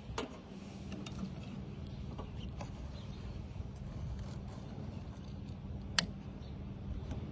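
Newly lit wood fire in a small steel camping stove, crackling with scattered sharp clicks and one loud crack about six seconds in, over a steady low hum.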